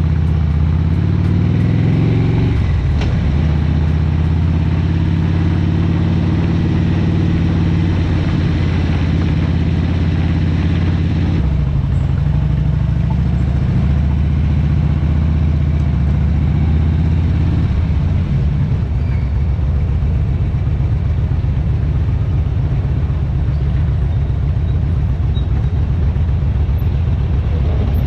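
Harley-Davidson motorcycle's V-twin engine on the move. It pulls up in pitch and drops back once a few seconds in, like a gear change, runs on with further changes in note through the first half, then settles to a steadier, rougher note in the second half.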